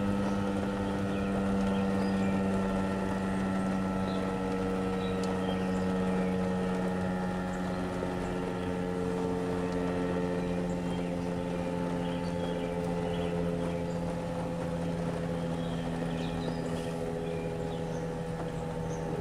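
Several Federal Signal outdoor warning sirens sounding together in a steady tornado-warning alert tone: a low drone with higher tones layered over it, their pitches drifting slowly.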